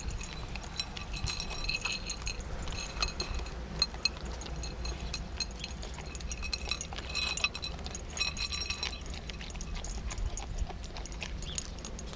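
A Belgian Malinois/German Shepherd cross puppy eating treats: irregular crunching and chewing clicks.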